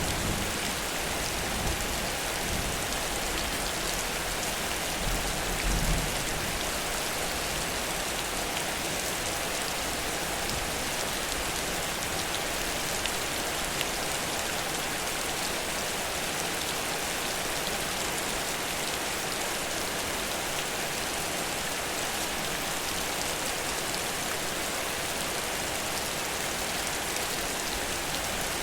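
Heavy rain pouring down as a steady, even hiss, with a brief low rumble about five seconds in.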